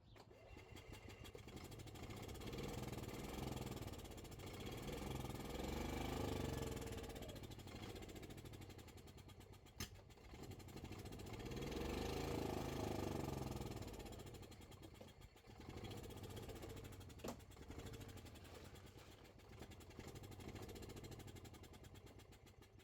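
Gas Club Car golf cart engine running, revving up and falling back twice in long swells, with smaller rises in between. A couple of sharp clicks are heard, one near the middle and one a few seconds later.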